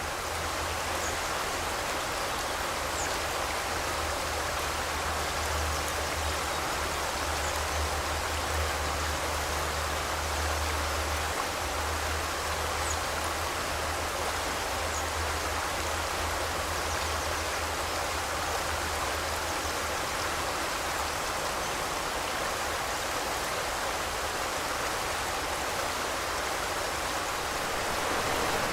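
River water flowing steadily, a continuous even rush. A low rumble underneath fades out about two-thirds of the way through.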